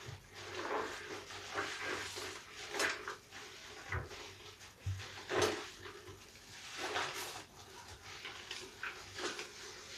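A large soapy bath sponge being squeezed and kneaded by hand, giving irregular wet squelches and lather crackle, with a few louder squeezes along the way.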